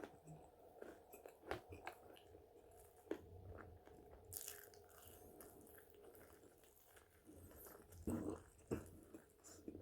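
A person biting and chewing french fries close to the microphone: faint, irregular crunches and mouth sounds, with a few louder bites about eight seconds in.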